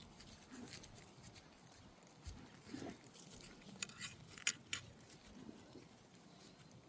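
Bulldog snuffling quietly, with a few soft low grunts and a short run of sharp clicks about four seconds in.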